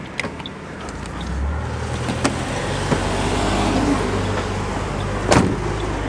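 A car engine running with a low, steady rumble that builds about a second in, with a few light clicks and one sharp knock about five seconds in.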